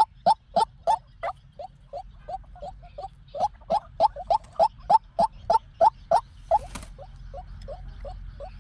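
White-breasted waterhen calling: a continuous series of short, harsh notes at about three a second, some louder, some softer, used as a lure call for trapping waterhens.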